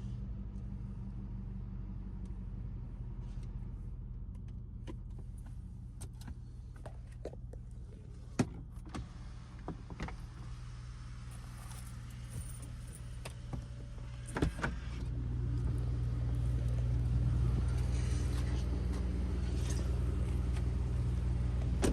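Straight-piped Dodge Durango idling with a steady low exhaust drone, with a scattering of sharp clicks and knocks over it. About two-thirds of the way through the drone gets noticeably louder.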